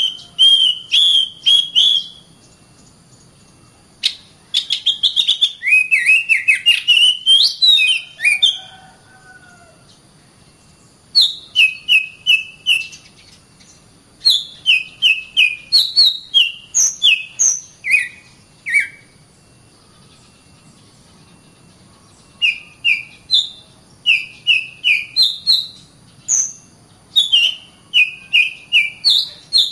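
Oriental magpie-robin (kacer) singing in phrases of clear whistled notes mixed with sharp clicks, with pauses of a couple of seconds between phrases.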